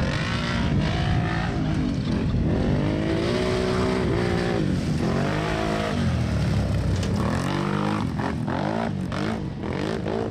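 Racing ATV engines revving, the pitch rising and falling again and again as the throttle opens and closes.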